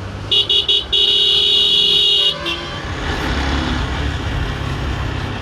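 A vehicle horn in a traffic jam: three quick toots, then one long blast of about a second and a half. After it, a steady low rumble of engines and traffic.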